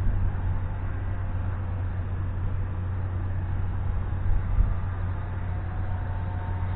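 Wind buffeting the microphone as a low rumble, with the small RC aerobatic airplane's motor and propeller whining faintly overhead, its pitch sliding as the plane flies past.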